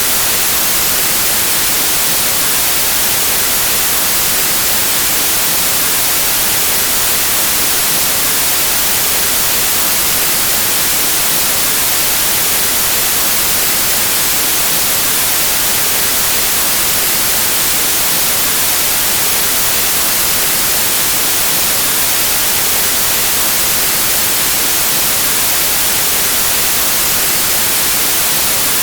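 Steady white noise: an even, unbroken hiss across all pitches, loud and constant with no change.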